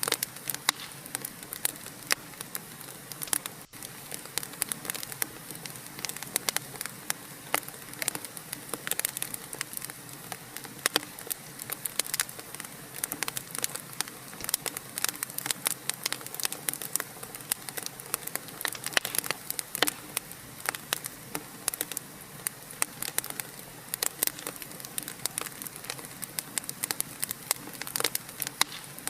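Wood fire crackling: a dense, irregular run of sharp pops and snaps over a steady hiss.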